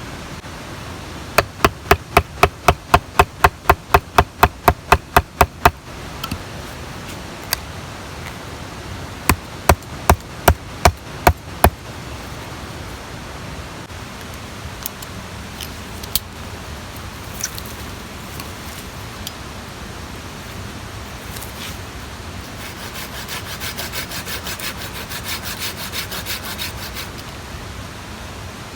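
Repeated sharp strikes on wood, about three a second, in two runs early on, with a few single knocks after. Near the end a hand saw starts cutting wood with quick back-and-forth strokes.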